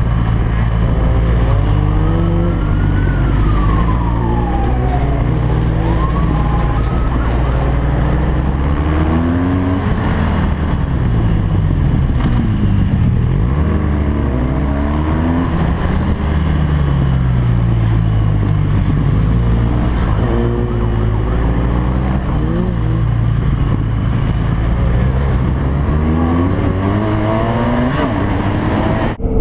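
BMW R1200GS LC motorcycle's boxer-twin engine at race pace, its pitch climbing and falling back again and again as it accelerates and shifts or brakes.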